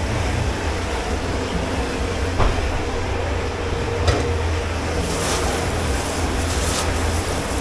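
Commercial kitchen dish pit noise: a steady low machine drone with a constant hum, two sharp knocks a couple of seconds apart, then a run of hissing bursts from about five seconds in.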